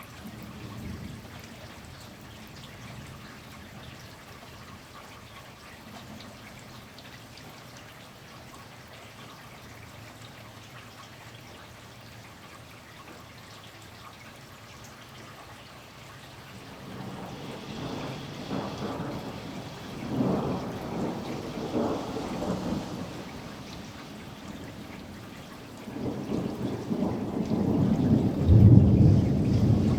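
Steady rain with thunder: a few rumbles from about halfway through, then a loud, long low rumble that builds up near the end.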